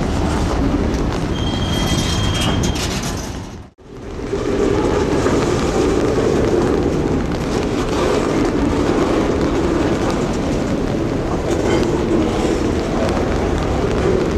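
High-sided woodchip freight cars rolling past on the track, wheels rumbling and clacking steadily. A short high wheel squeal comes about a second and a half in. The sound drops out briefly at about four seconds, then the rolling resumes.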